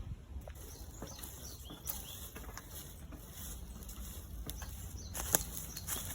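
Outdoor ambience: a few short bird chirps in the first half, and scattered crunching or rustling clicks over a low rumble, with the loudest crunch about five seconds in.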